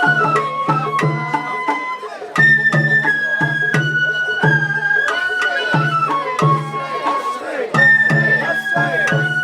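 Sawara-bayashi festival music: a shinobue bamboo flute playing a melody in long held notes over steady taiko drum beats.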